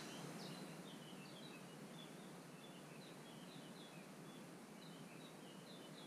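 Faint bird twittering: a run of short, high chirps over a steady background hiss, with a short noise right at the start.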